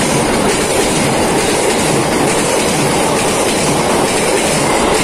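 Passenger train's carriages passing close by at speed, the wheels running on the rails in a steady loud rush of noise.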